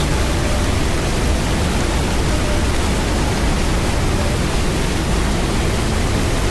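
Steady rushing water of a canyon stream, an even unbroken noise at constant level.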